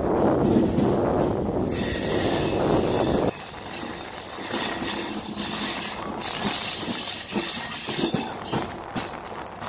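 Moving passenger train heard from an open coach doorway: heavy wind rush on the microphone for about the first three seconds, cutting off suddenly, then the wheels give a steady high-pitched squeal with scattered clicks of wheels over rail joints as the coaches take a curve.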